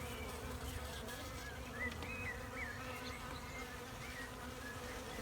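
Honeybees buzzing around a bait hive, a steady hum of many bees in flight close by. These are scout bees checking out the hive ahead of a swarm.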